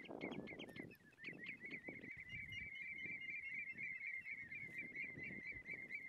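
A bird calling in a long, fast run of short, high chirps, several a second, over low rustling.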